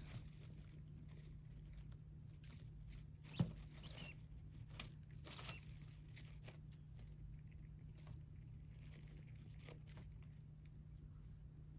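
Small pet birds pecking and shuffling: faint scattered taps and rustles, with one sharper click about three and a half seconds in, over a steady low hum.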